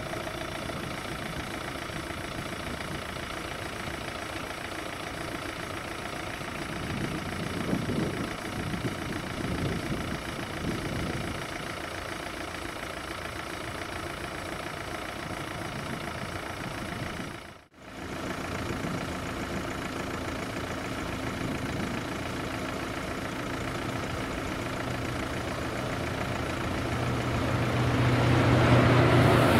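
A vehicle's engine running steadily. A brief dropout comes about two-thirds of the way through, and a louder low rumble builds near the end.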